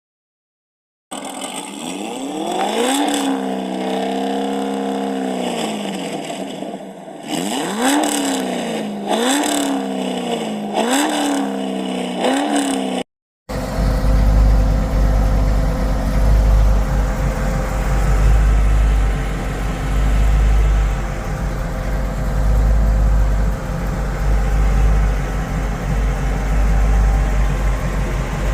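1968 Pontiac Firebird's engine revving, its pitch rising and falling in repeated blips. After a brief cut about halfway through, a steady deep exhaust rumble.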